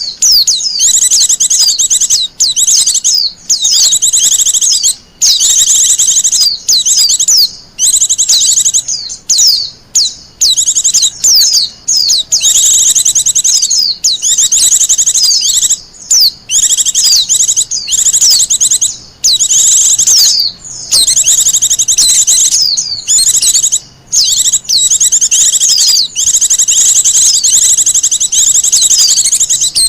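White-eye (pleci) singing: long strings of rapid, high-pitched twittering notes, broken by brief pauses every second or two.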